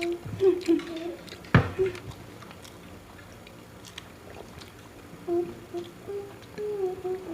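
Eating at a table: small clicks of chewing and handling food, one sharp knock about a second and a half in, and short bits of closed-mouth humming near the start and again in the second half.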